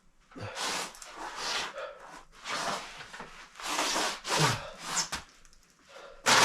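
Snow crunching and scraping in a run of about six long swishes, roughly one a second.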